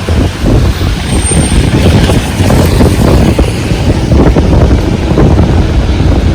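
Strong gusting wind buffeting the microphone over the steady hiss of heavy rain, loud and unbroken.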